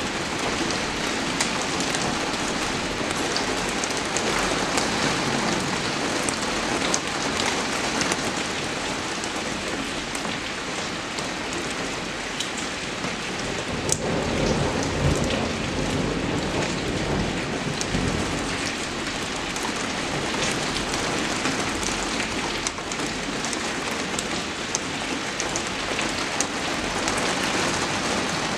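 Steady rain falling, with many sharp drop ticks spattering on a surface over an even hiss. A low rumble swells in about halfway through and fades a few seconds later.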